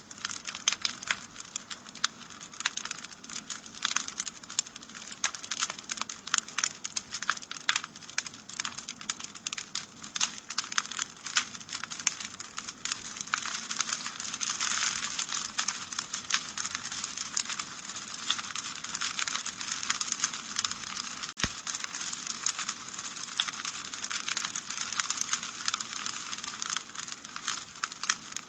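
Wood fire crackling steadily in a fireplace: a dense stream of sharp pops and snaps over a soft hiss.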